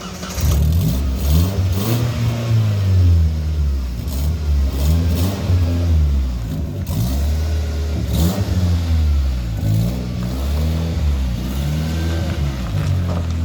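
Donkervoort D8 sports car's Audi engine being revved repeatedly, its pitch rising and falling again about every three seconds.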